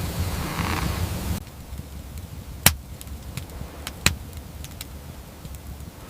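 A steady rushing noise, like wind, that cuts off abruptly about a second and a half in, followed by a few scattered sharp cracks and clicks, two of them louder than the rest.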